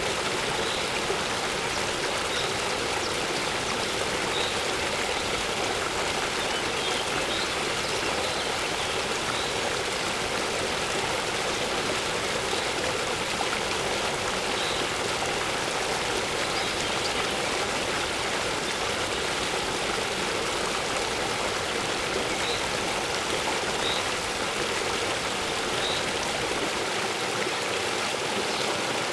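Waterfall rushing steadily, with faint short bird chirps every second or two.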